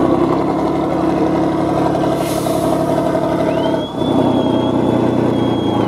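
Heavy truck engine running at a steady pitch, with a short hiss of air about two seconds in. A thin, high, steady whistle rises in at about three and a half seconds and holds until the end.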